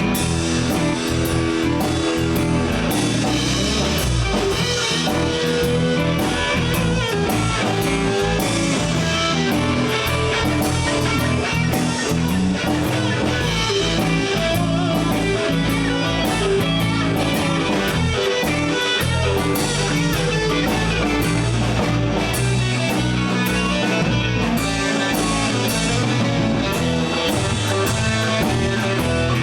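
Live blues band playing an instrumental stretch: electric guitars over bass and a drum kit.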